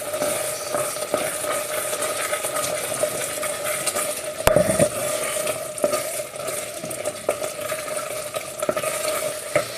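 Risotto being stirred in a pan: a spoon scraping and clicking against the pan over a steady sizzle as the rice cooks down and thickens. One louder knock about four and a half seconds in.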